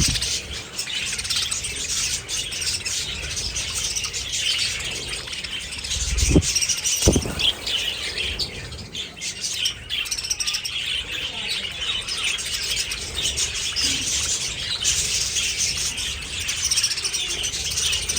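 A flock of budgerigars chattering and chirping without pause. Two dull thumps come about six and seven seconds in.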